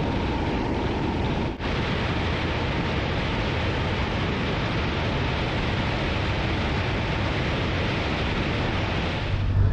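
Steady rush of wind and road noise on a motorcycle rider's microphone at speed, with a brief dip about one and a half seconds in. Near the end a low engine drone comes up and the sound gets louder.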